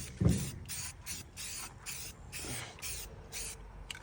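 Aerosol spray can of satin enamel paint spraying in short, quick hissing bursts, about two or three a second. A dull thump comes just after the start.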